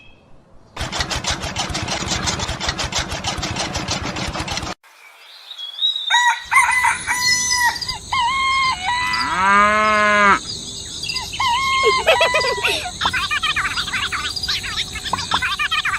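A dense, rapid rattling noise for about four seconds, then after a short silence, chickens: a rooster crows once with a long arched call about ten seconds in, amid hens clucking and cackling.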